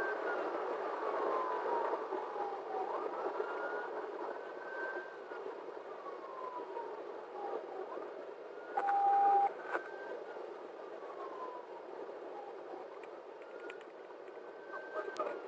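Patrol car siren wailing, rising and falling slowly in pitch every four seconds or so, over the pursuing car's engine and road noise. A brief, louder steady beep sounds about nine seconds in.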